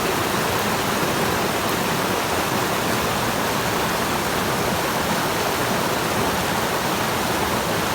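Steady, even rush of flowing water, as of a forest stream.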